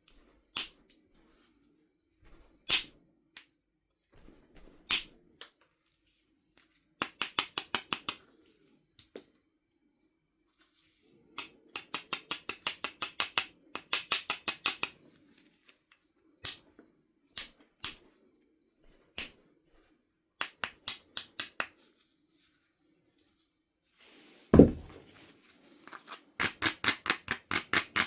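Knife River flint being knapped: scattered sharp clicks of strikes on the stone, with runs of quick light strokes at about eight to ten a second as the edge is worked. About 24 seconds in comes one heavier, deeper strike, the loudest sound of the stretch.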